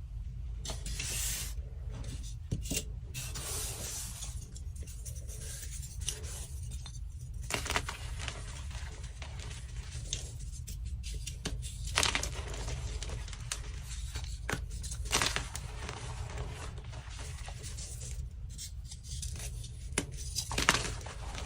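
Dyed gym chalk blocks being crushed and crumbled, a steady dry crunching and scraping with a few sharper cracks as pieces snap, over a steady low hum.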